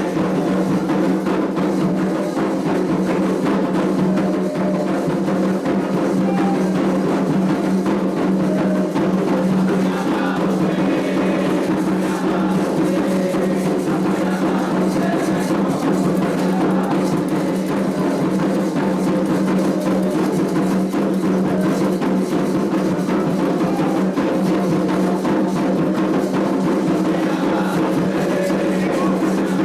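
Candomblé ritual drumming on atabaque hand drums, a dense, steady rhythm that keeps going without a break.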